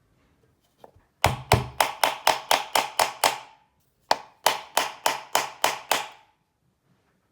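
Hammer striking metal in quick, even blows, about four a second, each with a short metallic ring. A run of about nine blows, a short pause, then about eight more.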